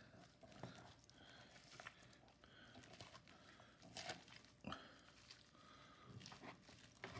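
Near silence broken by a few faint knocks and clicks of a knife or cleaver on a cutting board while a cooked turkey breast is carved.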